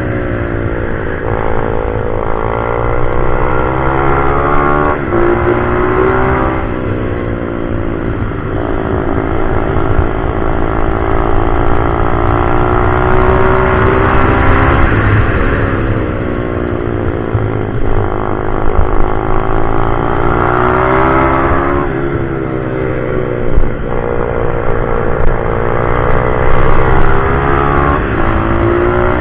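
Pit bike's small single-cylinder engine ridden hard round a track, revving up through the gears with sudden drops in pitch at each shift and falling away on the throttle into corners, over and over.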